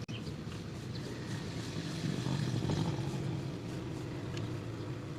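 Steady low rumble of road traffic, swelling a little about two seconds in, with a few faint ticks.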